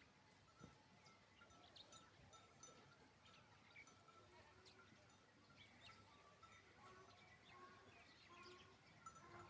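Near silence, with faint, scattered calls of distant animals: short chirps and bleat-like cries.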